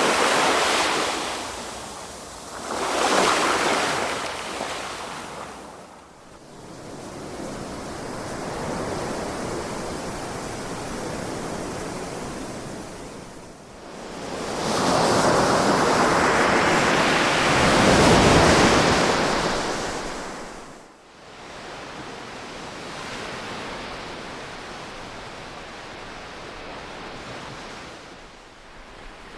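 Calm ocean waves surging and washing back as a rushing hiss of surf. The surges swell and ebb: one at the start, another about three seconds in, and a longer, louder one over about five seconds past the middle.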